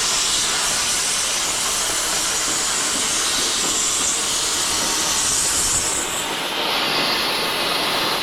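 Steady, loud hiss of rushing air. Its tone shifts slightly about six seconds in.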